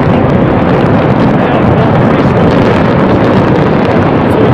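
Loud, steady rumble of a large fireworks display, many shell bursts blurring into one continuous roar without separate bangs, mixed with wind buffeting the microphone.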